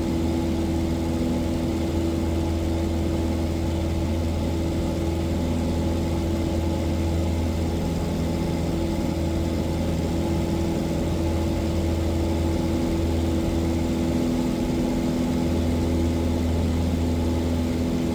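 Cessna 177 Cardinal's single piston engine and propeller droning steadily in flight, heard from inside the cabin.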